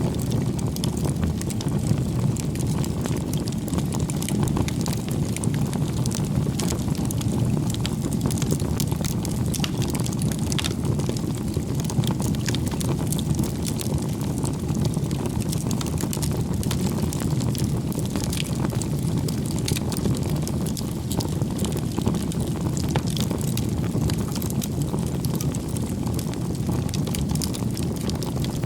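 Wood fire burning: a steady low rumble of flames with frequent small crackles and pops from the burning firewood.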